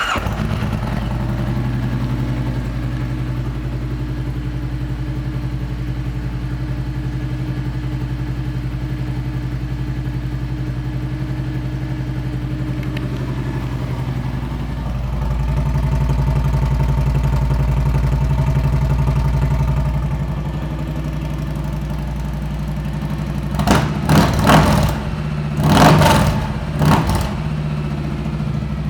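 2016 Kawasaki Vulcan 1700 Vaquero's V-twin, fitted with aftermarket exhaust pipes, idling steadily just after starting. The idle picks up a little for a few seconds midway. Then comes a quick series of about five throttle blips.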